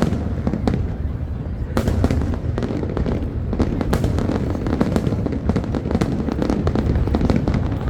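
Fireworks display: a rapid string of sharp bangs and crackles over a steady low rumble. The bangs grow much denser about two seconds in.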